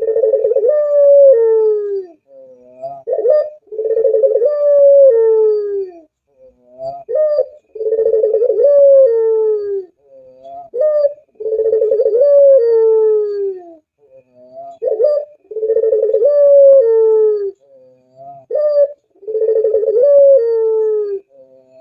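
Puter (Barbary dove) cooing in a repeated phrase about every four seconds. Each phrase is a short rising note followed by a long, rolling coo that falls in pitch at the end.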